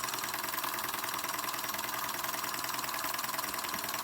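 Weeden No. 14 toy steam engine running, a fast, even beat of piston strokes over a steady hiss.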